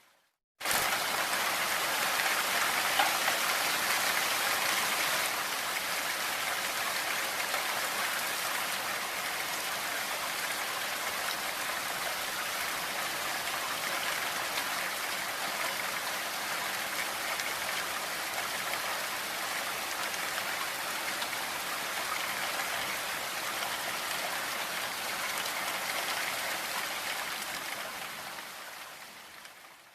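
Steady rain, a dense even hiss of falling drops, cutting in suddenly about half a second in and fading out over the last couple of seconds.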